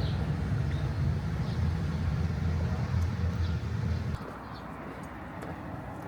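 Steady low vehicle rumble that cuts off abruptly about four seconds in, leaving quieter outdoor ambience with a few faint chirps.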